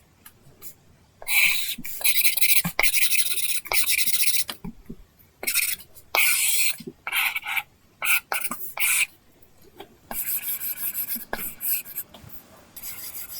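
Apple Pencil drawing on an iPad screen fitted with a paper-like film: scratchy pen strokes of half a second to a second and a half with short pauses between them, and light taps of the pen tip.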